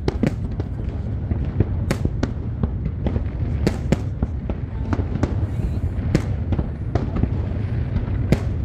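Aerial firework shells bursting in an irregular run of sharp bangs, some close together, over a steady low rumble.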